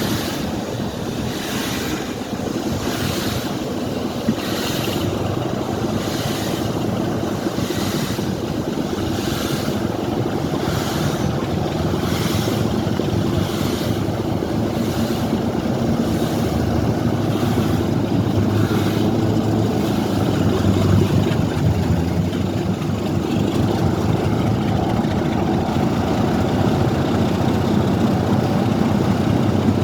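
A train running with a steady rumble and a regular beat about once a second that fades after about twenty seconds, while a deeper engine note grows stronger later on.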